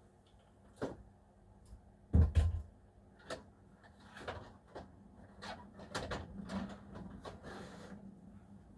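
Small objects being handled and set down by hand: a string of knocks and clatters, the loudest a heavy thump about two seconds in, with a run of lighter clicks and rustling in the second half.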